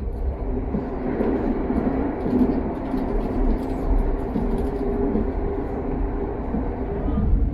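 Train running at speed, heard from on board: a steady rumble of wheels on rail with a low hum and a few faint clicks from the track.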